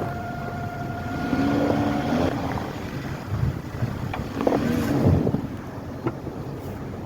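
Ford Edge engine idling steadily with a low hum. A few sharp clicks and short squeaks cut in, the loudest about five seconds in.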